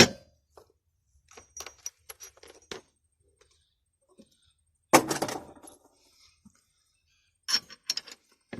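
Metal clinks and knocks of a stainless steel bolt, nut and bracket being handled and fitted: a sharp knock at the start, scattered light clicks, a louder clattering knock about five seconds in, and more clicks near the end.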